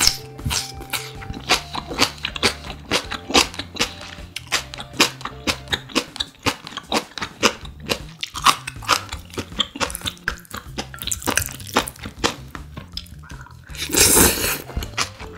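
Close-miked crunching and chewing of crisp food such as young radish kimchi, with many short sharp crunches and a louder rushing sound about a second long near the end.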